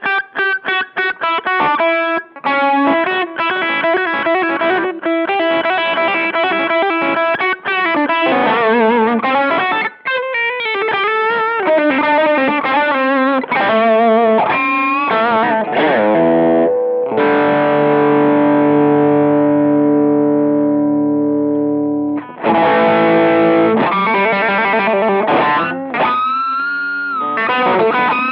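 Electric guitar played through a Behringer Vintage Overdrive TO100, a Tube Screamer-style overdrive pedal, giving a driven, distorted tone. Quick riffs and single notes give way to a long chord left ringing for several seconds, then bent notes near the end.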